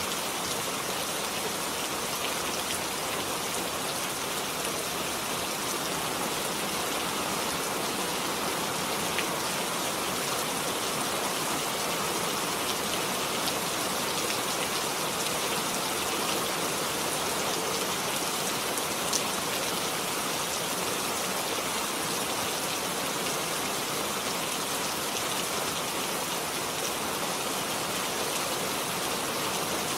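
Steady rain falling, an even hiss of many drops hitting a surface, with an occasional louder drop.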